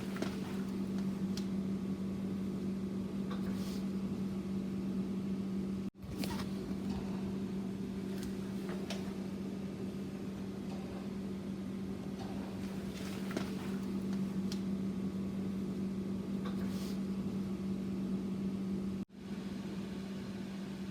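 Microwave oven running with a steady electrical hum and faint scattered clicks. The hum cuts out briefly twice.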